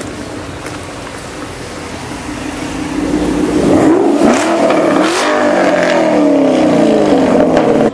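Performance car engine accelerating hard, getting louder about three seconds in, its pitch climbing and dropping back twice in quick shifts, then falling steadily away.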